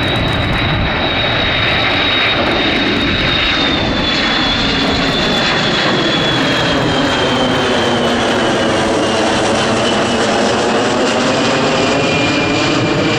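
Boeing KC-135R's four CFM F108 turbofans running at power on a low go-around pass: a loud, steady jet noise with a high fan whine that slowly falls in pitch as the aircraft goes by.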